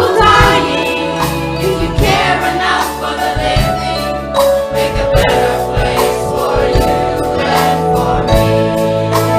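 Choir singing a gospel-style song with a band: steady bass notes and a regular percussion beat under the voices.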